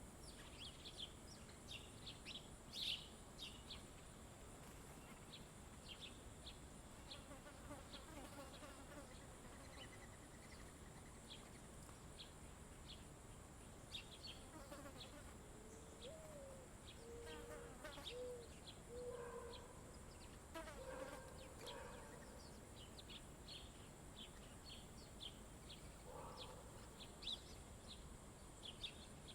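Faint, repeated short high chirps from small birds throughout, with a few lower warbling song phrases in the middle and near the end, over a steady faint high hum.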